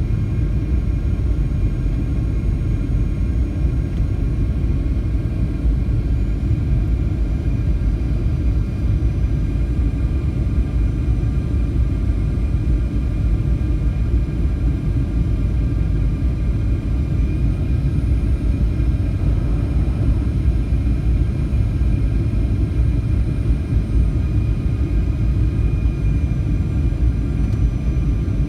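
Airliner cabin noise during the approach to landing: a steady, loud rumble of jet engines and airflow, with a faint steady whine over it.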